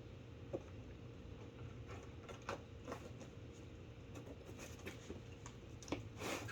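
A few light taps and knocks at irregular intervals, the loudest near the end, as a cat plays with a toy. They sound over a steady low hum.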